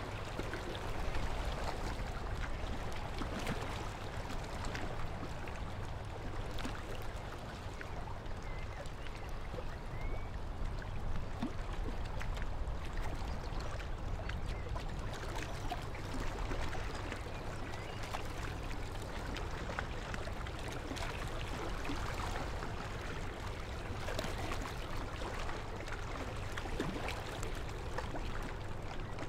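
River water lapping and splashing steadily against a stone breakwater, over a steady low rumble. A bird chirps briefly a couple of times about ten seconds in.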